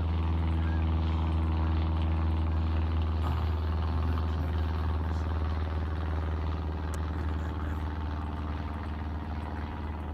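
Steady low machine hum, like a running engine or motor, holding one even pitch and easing slightly in level over the second half.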